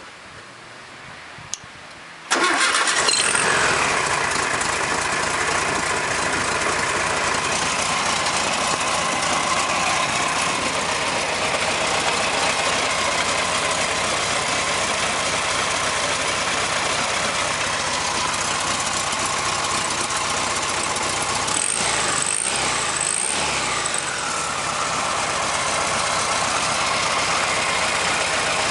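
A 1974 VW Super Beetle's air-cooled flat-four starts about two seconds in and settles into a steady idle, its alternator and cooling fan turning on a new belt. A brief high chirping and unsteadiness comes about three-quarters of the way through.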